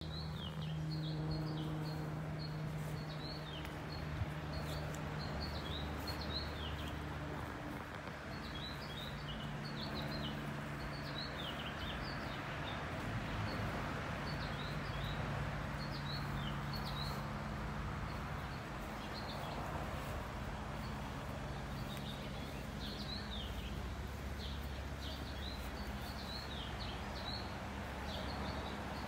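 Songbirds chirping in quick, repeated short calls, over a steady low hum.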